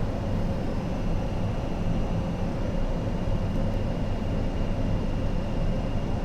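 Steady flight-deck noise of an Avro RJ100 on approach with the landing gear down: a constant rush of airflow and engine hum, with a thin, steady high whine over it.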